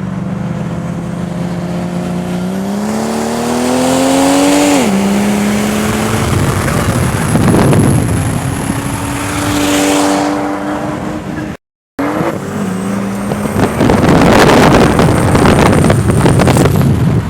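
Twin-turbo Ford BA XR8 V8 under hard acceleration. Its pitch climbs, drops sharply at a gear change about five seconds in, then holds steady. After a cut, a loud rushing noise plays over the engine to the end.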